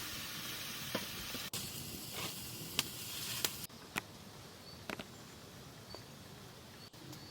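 Food frying and sizzling in a hot pan, with scattered crackles and pops. About halfway through it drops abruptly to a quieter background with occasional clicks and a few faint, short, high chirps.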